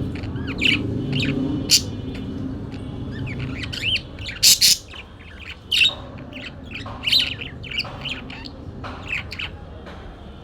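Parakeets chirping and squawking in a rapid run of short calls, with a few sharp, loud squawks about four and a half seconds in. A low rumble underneath fades out in the first few seconds.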